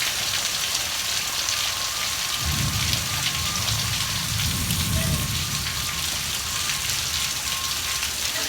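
Heavy rain falling steadily. About two and a half seconds in, a low rumble of thunder rolls for about three seconds.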